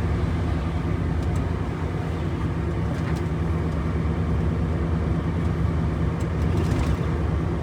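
Renault T-range truck's diesel engine running steadily while driving, heard from inside the cab as an even low drone with road noise.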